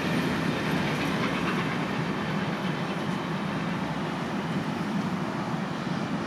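Train running past on the line, a steady rumble and rail noise with some clickety-clack, slowly fading as it draws away.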